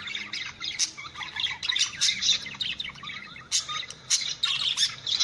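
Budgerigars chattering and warbling, a dense run of quick chirps and sharp squeaky notes.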